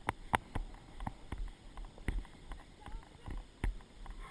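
A horse's irregular hoofbeats with creaks and knocks from its tack, heard from a camera mounted on the rider.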